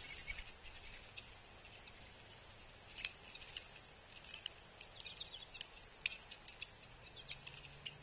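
Small birds at a snowy feeder giving faint, scattered short chirps and ticks, with a few sharper ones about three and six seconds in.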